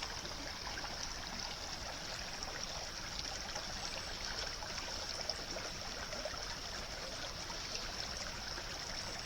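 Steady running water, like a small stream trickling.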